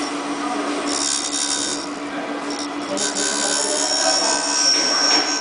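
Universal cutter grinder running, its motor humming steadily while the grinding wheel is passed along the edge of a helical milling cutter. The grinding hiss comes in about a second in and again from about three seconds, with a high whine toward the end.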